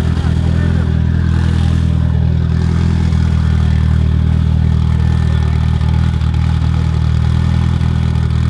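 A car engine idling steadily and loudly close by, its low, even note holding the same pitch throughout.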